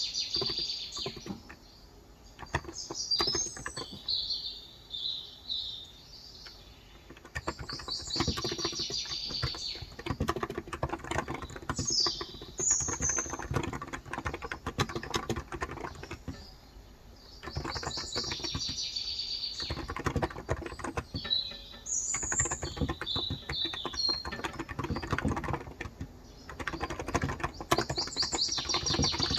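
Small birds chirping and trilling in short phrases every few seconds, over a steady run of typing on a Cox Endeavour electro-capacitive 35 g tenkeyless keyboard.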